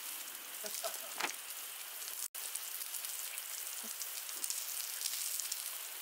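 Scallops sizzling on a hot griddle: a steady, crackling hiss of frying. It cuts out for an instant a little over two seconds in.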